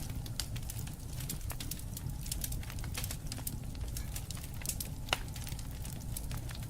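Wood fire crackling, with frequent irregular small pops over a steady low rumble and one sharper pop about five seconds in.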